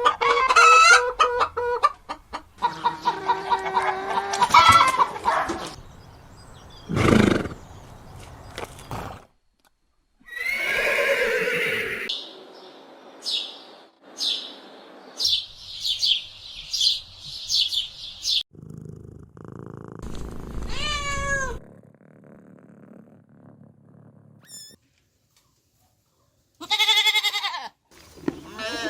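A string of different animal calls cut one after another with abrupt breaks: several pitched cries and bleat-like calls, a quick series of short high calls, and one falling call.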